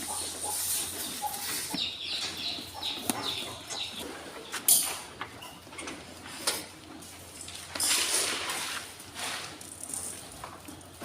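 Sheep-shed sounds at feeding time: scattered knocks and rustling, with a few sharp clacks near the middle, birds chirping, and a steady low hum underneath.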